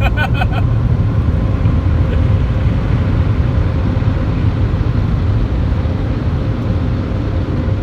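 Steady loud rumble of automatic car wash machinery, with a faint steady hum running under it.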